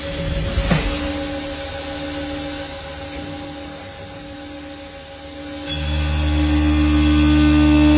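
Milltronics TRM3016 CNC mill spindle running at about 4,500 rpm after spinning up, with a steady high whine. A louder low hum comes in about three-quarters of the way through.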